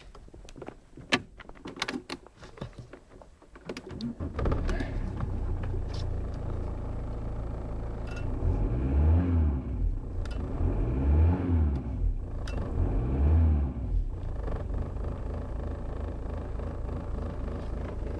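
A few clicks and knocks, then an Audi car engine starts from cold about four seconds in and settles into a steady idle. It is revved briefly three times, about two seconds apart, each rev rising and falling, and then idles again.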